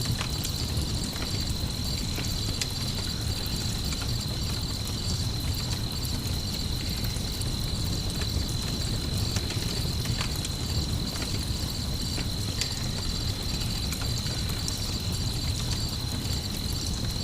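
Campfire crackling with scattered small pops while crickets chirp in a steady, high, unbroken trill, over a low rumbling background.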